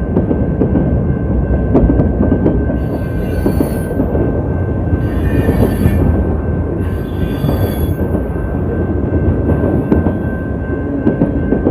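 Freight train rolling past close by: a steady heavy rumble of wheels on rail, with high-pitched wheel squeals three times, about three, five and seven seconds in. The sound is distorted by a water-damaged microphone.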